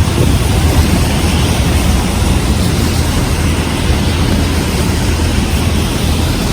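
Heavy rain falling in strong wind, a steady rushing hiss, with gusts rumbling on the microphone.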